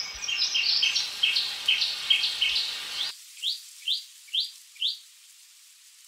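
Chestnut-fronted shrike-babbler singing: a quick run of short, high notes in high-then-lower pairs, then four separate rising notes about half a second apart. About three seconds in, the background hiss cuts off abruptly.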